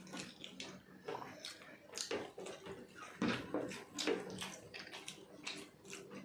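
Wet eating sounds from people hurriedly eating biryani: chewing and mouth smacks in a quick, irregular run.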